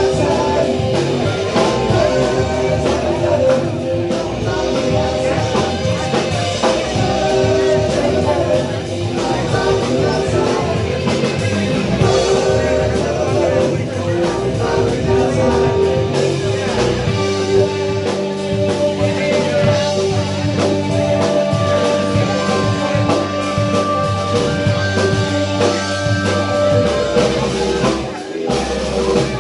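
Rock band playing, with drums, guitar and singing; long held notes ring out in the later part.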